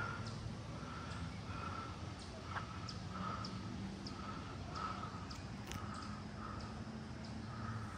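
Birds calling in woodland: one short call repeated about twice a second, steady and unbroken, with fainter high chips from another bird over it.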